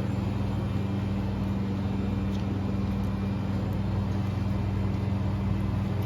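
A motor running steadily, a low even hum with a fast fine flutter and no change in speed.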